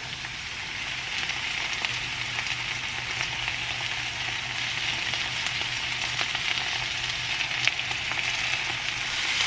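Diced potatoes, onions and sliced hot dogs sizzling in oil in a hot skillet, a steady hiss with scattered small pops, as tomato sauce is poured over them.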